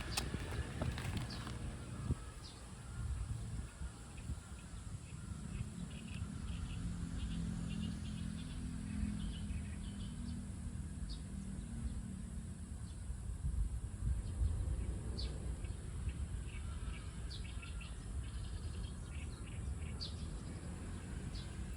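Outdoor park ambience: scattered short bird chirps over a steady low rumble, with a low hum that swells and fades between about five and twelve seconds in.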